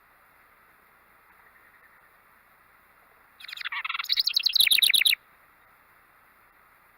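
A songbird sings one loud song of rapid repeated notes, starting about three and a half seconds in and lasting under two seconds, over a faint steady background hiss.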